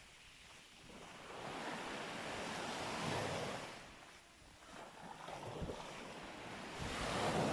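Waves breaking and washing up the beach in slow swells: one builds to a peak about three seconds in and fades, and the next builds near the end. Light wind on the microphone underneath.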